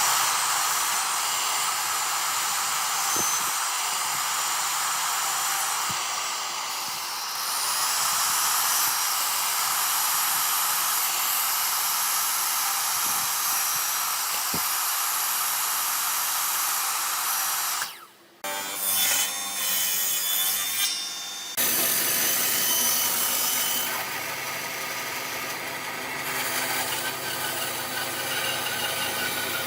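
Power tool working wood with a steady hissing whine. It cuts off abruptly about eighteen seconds in, a lighter, different tool sound follows for a few seconds, and then the steady sound returns.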